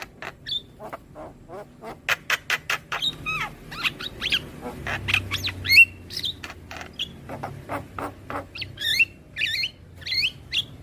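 Javan myna (jalak kebo) calling: rapid runs of sharp clicking notes mixed with short whistled notes that slide up and down.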